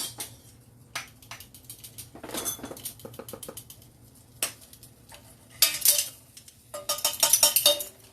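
Measuring spoons and kitchen utensils clinking and clattering as flour is spooned out: a few single clicks, then two bursts of rapid metallic clatter with brief ringing in the second half.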